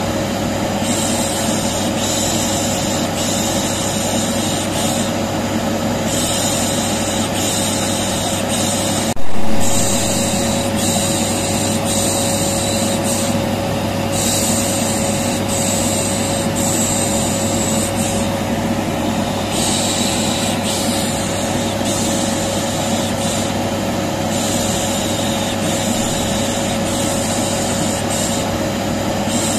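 Vacuum cleaner motor running steadily with a constant hum, overlaid by repeated 'pşşş' shushing hisses that start and stop every second or so, a soothing white noise for a colicky baby. A single sharp knock sounds about nine seconds in.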